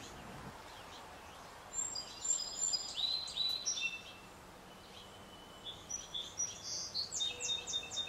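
Small songbird chirping in two bouts of quick, high notes, over a faint steady outdoor background.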